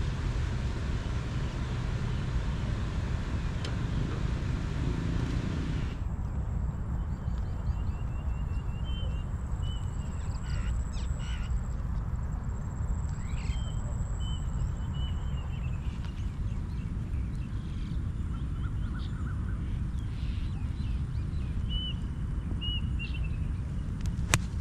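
Birds calling in short repeated chirps over a steady low rumble, with one sharp click near the end.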